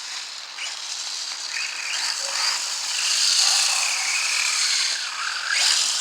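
Himoto EMXT1 radio-controlled monster truck running, its electric motor whining up and down in pitch with the throttle over a steady hiss of tyres sliding, with two louder surges.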